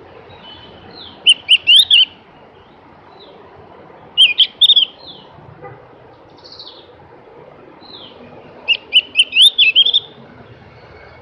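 Javan grey-throated white-eye (opior jawa, also called cucak gentong) singing three loud bursts of quick, high, slurred whistled notes, with softer single notes between the bursts.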